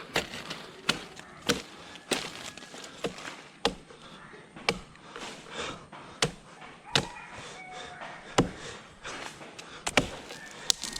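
A blade chopping into the dry wood of a jackfruit tree: about a dozen sharp strikes, roughly one a second and unevenly spaced.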